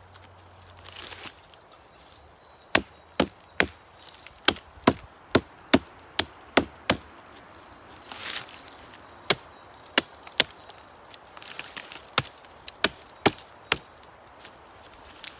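Wood being chopped with a blade: a run of about ten sharp, evenly paced strokes, a pause, then two shorter runs of strokes.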